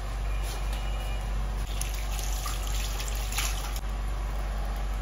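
Egg-soaked bread slice sizzling in melted butter in a nonstick frying pan over low heat, with a run of crackles about two to three and a half seconds in, over a steady low hum.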